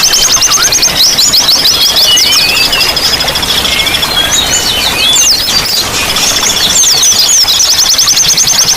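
Several songbirds singing at once in fast, high chattering trills and quick whistled slurs, over a steady rush of running water.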